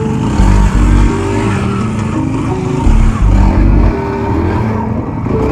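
Small pit-bike engines revving, mixed with background music that has a heavy bass beat.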